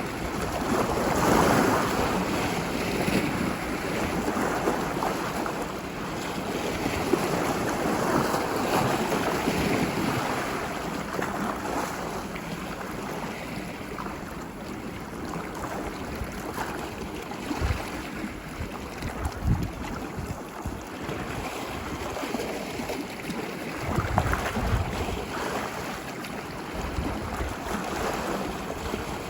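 Ocean surf washing ashore, a steady wash that swells louder a couple of times early on and then eases. Wind buffets the microphone in a few short low rumbles in the second half.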